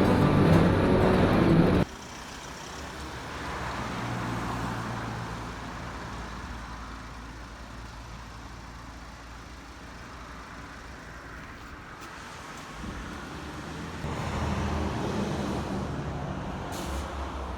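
Background music that cuts off about two seconds in, then the low, steady rumble of a road vehicle's engine, swelling twice.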